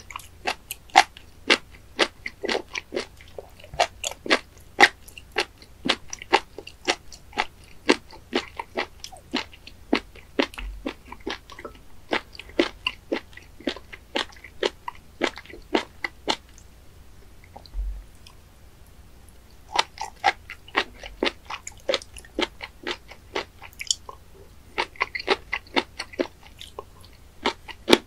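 Close-miked chewing of raw spoon worm (gaebul) pieces: a rapid run of sharp, wet mouth clicks, about three a second. The chewing pauses for a few seconds a little past halfway through and then starts again.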